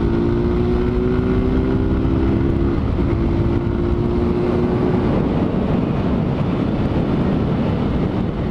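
Honda CG 160 Titan's single-cylinder engine running through its stock exhaust while riding, under heavy wind noise on the microphone. The engine note holds steady, breaks about three seconds in, and fades into wind and road noise after about five seconds.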